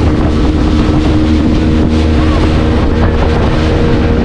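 Speedboat engine running steadily under way, its hum over the rush of wind and water, with wind buffeting the microphone.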